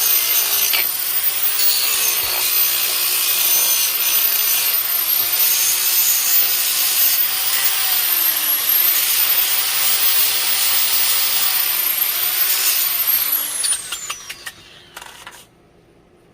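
An electric power tool working wood, its motor pitch dipping briefly twice as it bogs under load. It winds down and stops about 14 seconds in, with a few clicks as it dies away.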